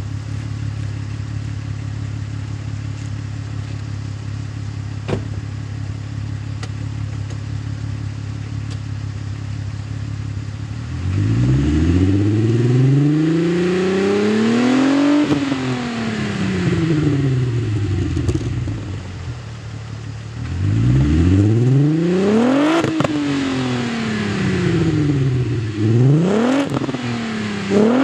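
VW Jetta VR6 12-valve engine through a non-resonated Borla cat-back exhaust, idling steadily, then revved: one slow climb and fall about eleven seconds in, a quicker rev a little past twenty seconds, and two short throttle blips near the end.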